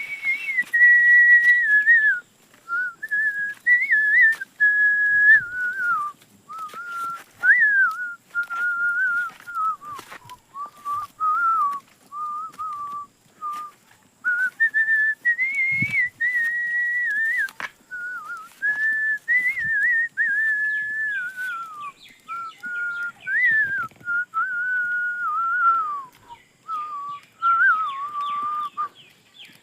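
A person whistling a slow tune, one clear note at a time, in phrases that rise and fall with short breaks between them. Faint clicks and a brief low thump sound behind it.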